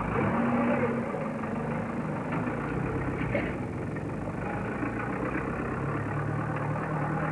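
Motor vehicle engine running steadily at low speed, a continuous low hum.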